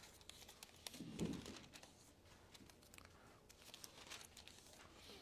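Near silence with the faint rustle and light crinkling of thin Bible pages being turned, and a brief low sound about a second in.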